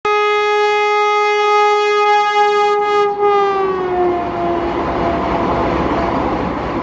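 High-speed express train sounding one long horn note as it approaches. The note drops in pitch as the train passes, then gives way to the steady rumble of its wheels crossing a steel girder bridge.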